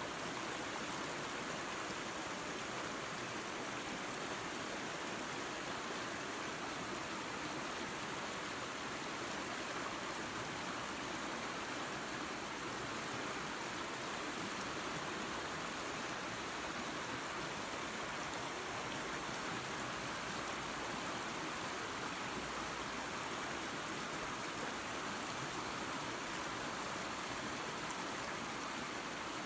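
Small waterfall and creek: water falling and rushing over rocks in a steady, even hiss.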